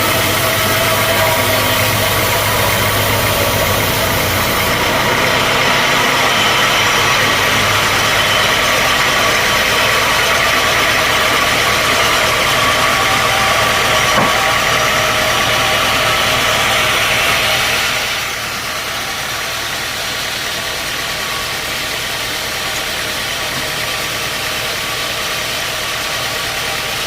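Sawmill machinery running steadily with a continuous mechanical whine and hum. About 18 seconds in the higher part of the sound falls away and it becomes quieter.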